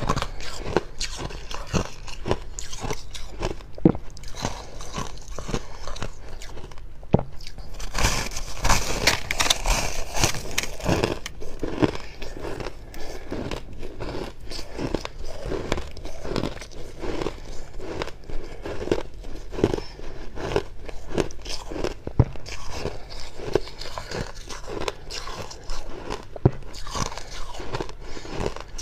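Close-up biting and chewing of fluffy freezer frost: dense, dry crunches one after another, with a louder, crisper run of crunching about eight to eleven seconds in.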